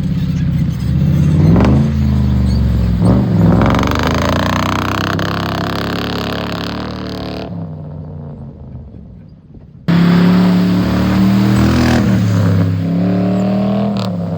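A 1998 Ford F-150's 4.6-litre V8 revving up and down as the truck is driven off-road, its pitch climbing and falling repeatedly. The sound drops away abruptly past the middle and comes back loud a couple of seconds later.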